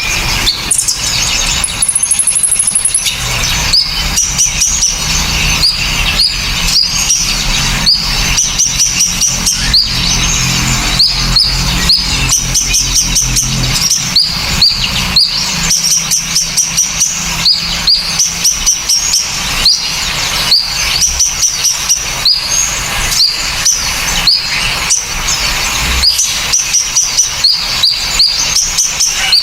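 Small songbirds singing in a fast, continuous string of short, sharp, rising chirps, interspersed with sharp clicks. This is a masteran recording used to teach cage birds new song.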